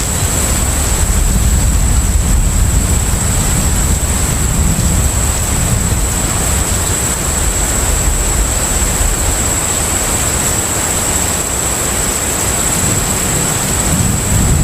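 Steady low rumble and rushing wash of a container ship under way at sea, with a constant thin high-pitched tone over it.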